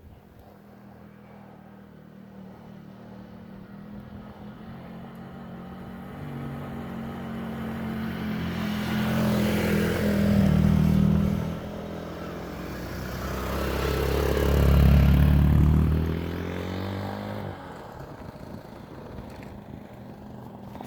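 A motor vehicle's engine approaching and passing close by. It grows steadily louder, is loudest twice, about ten and fifteen seconds in, and then drops away sharply.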